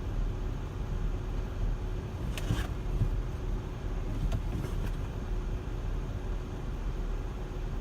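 Steady low rumble of a car in motion with a faint constant hum, broken by a few brief clicks about two and a half seconds in and again a couple of seconds later.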